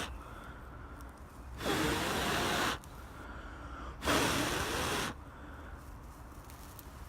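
A person blowing twice into a smouldering dry-grass tinder bundle, each blow a long breathy rush of about a second, coaxing the char cloth ember into flame.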